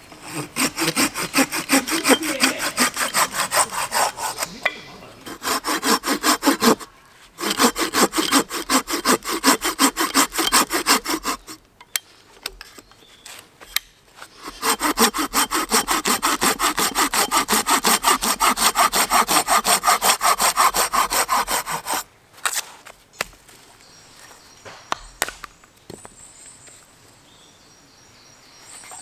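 Hand saw cutting through wood in quick back-and-forth strokes, in three long runs with short pauses between them; a few light knocks follow near the end.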